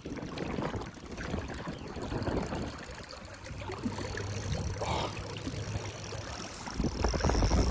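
Rushing river current with wind buffeting the microphone, a steady noisy rush with low rumble.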